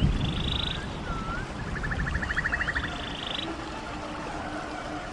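Small birds calling over a running stream: short whistled slurs and rapid, evenly pulsed trills, with a brief surge of water noise at the start.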